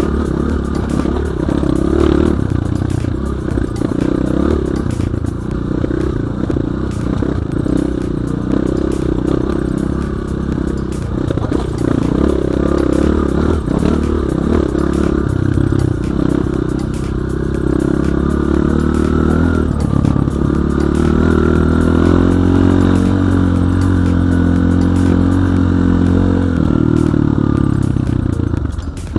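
BSE J1 enduro motorcycle engine running under load, its pitch rising and falling with the throttle, with frequent clattering knocks over rough ground. The engine holds a steadier, higher run for the last ten seconds or so before dropping off briefly near the end.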